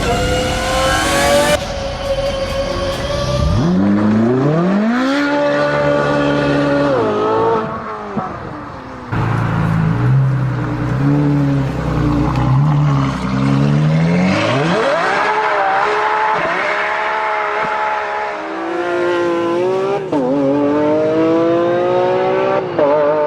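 Racing car engines accelerating and revving, their pitch climbing and dropping through gear changes, in several short clips that cut abruptly from one to the next.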